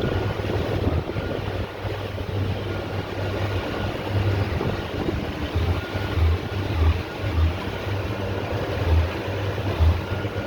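Motorboat under way, its engine running steadily beneath a constant rush of wind and water, with wind buffeting the microphone in irregular low thumps.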